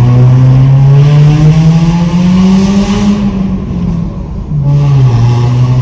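A car's engine and exhaust, heard through an open driver's window under hard acceleration. The engine note climbs steadily for about three seconds, dips once about four and a half seconds in, then climbs again.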